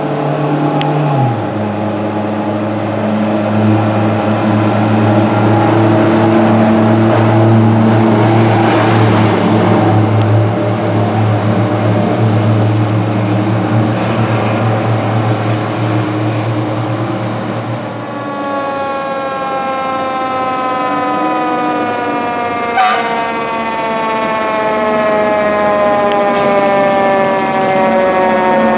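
Fire apparatus passing close with heavy engine noise and a steady low horn-like tone, which steps down in pitch early on. A siren's wail follows, falling slowly and steadily in pitch, with one sharp click partway through.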